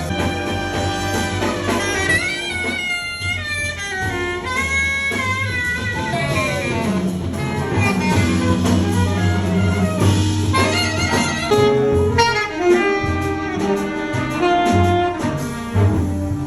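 Background music: an upbeat jazzy instrumental led by saxophone over bass and drums.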